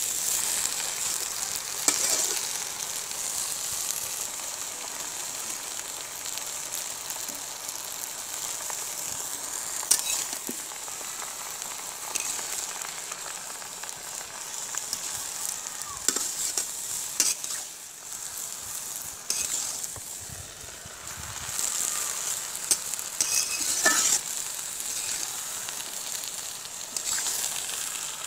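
Leafy napa shak greens with garlic sizzling in oil in a large metal wok, with a steady hiss. A metal spatula scrapes and knocks against the pan now and then as the greens are stirred.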